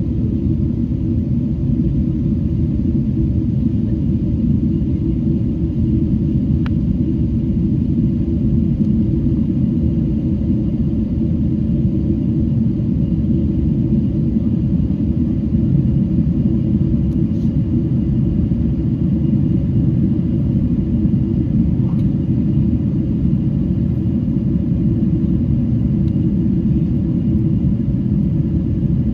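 Steady low rumble of airflow and engine noise inside the cabin of a Boeing 777-300 airliner on its approach.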